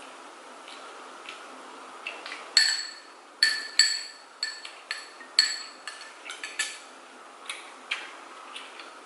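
Eating utensils clinking against a dish, about a dozen sharp ringing clinks coming fast in the middle stretch, with a few lighter taps before and after.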